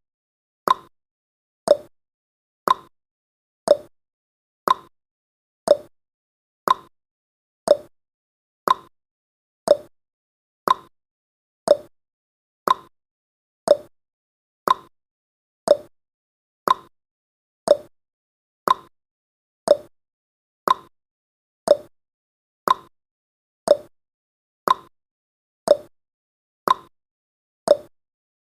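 Clock-ticking sound effect of a countdown timer: one short, sharp tick every second, alternating between a slightly higher tick and a lower tock.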